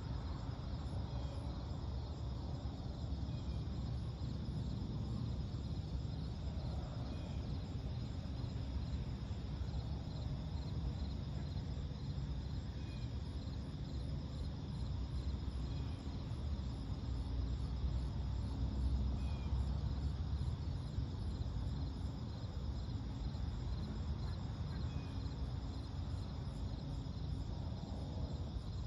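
Pre-dawn lakeside ambience: crickets and other insects trilling steadily over a low, steady rumble, with a few faint, short chirps now and then.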